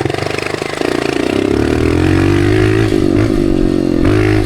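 Dirt bike engine picking up abruptly, its revs rising over the first second or two, then running steadily at a constant pitch.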